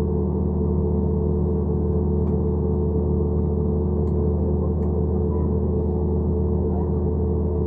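Steady engine drone inside an airliner cabin in flight: a constant low hum with several held tones over the rush of air, unchanging throughout.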